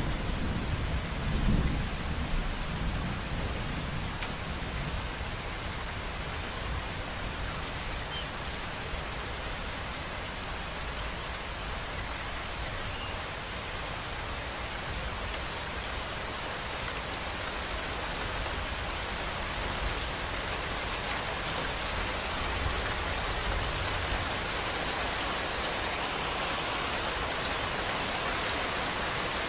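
Steady rainfall, an even hiss of rain on surfaces, with a low rumble about a second and a half in that fades over the next few seconds.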